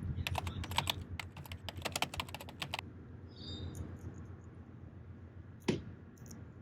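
A fast, irregular run of sharp clicks lasting about two and a half seconds, then a short high bird call, and a single louder click near the end.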